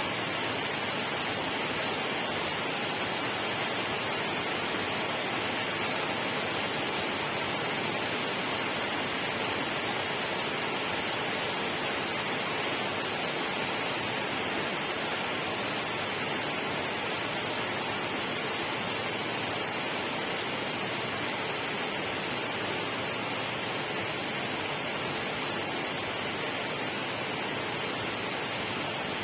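Steady, unchanging rush of water noise, an even hiss with no distinct drops, splashes or other events.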